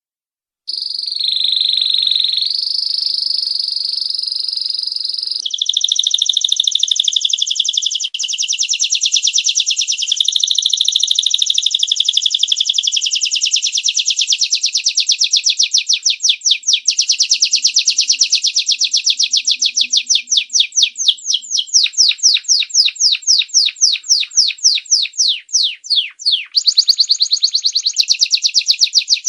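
Domestic canary singing a long continuous song: it starts about a second in with held whistled notes, moves into rolling trills, then long runs of fast repeated chirps at about four a second, quickening near the end.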